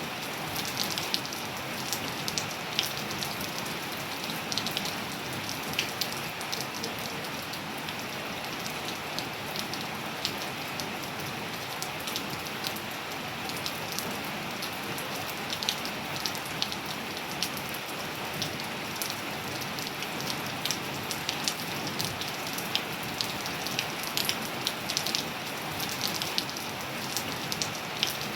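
Steady rain falling on surfaces, with a constant hiss and frequent sharp drop ticks close to the microphone.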